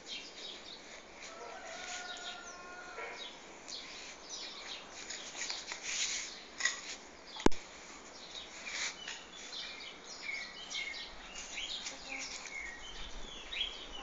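Birds chirping in many short, high calls, with a brief lower pitched call about two seconds in. A single sharp click stands out about seven and a half seconds in.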